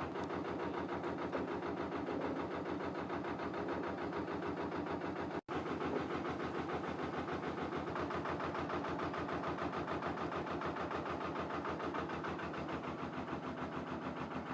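Narrowboat diesel engine running steadily at low revs, its even beat going on throughout, with a brief break about five seconds in.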